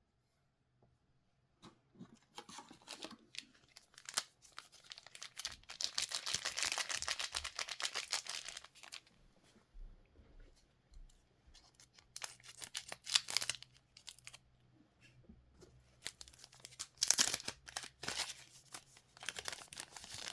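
Plastic wrapping of trading card packs being torn open and crinkled by hand, in several crackling bursts, the longest lasting a few seconds, with short pauses between.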